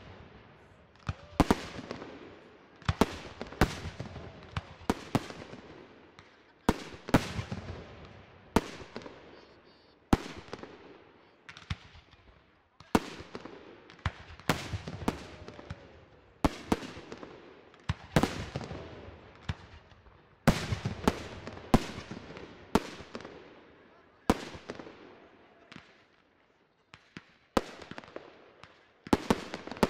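Aerial fireworks display: shells bursting in a fast series of sharp bangs, about one or two a second, each trailing off into a fading rumble and crackle, with brief lulls between volleys.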